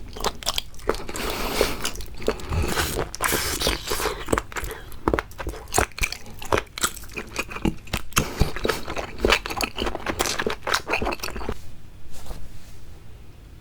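Close-miked eating sounds of raw seafood: a quick irregular run of wet bites, smacks and chewing that thins out near the end.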